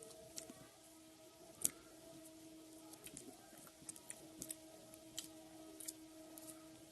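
Slime being squeezed and worked by hand, giving irregular small sticky clicks and pops, the loudest one a little under two seconds in, over a faint steady hum.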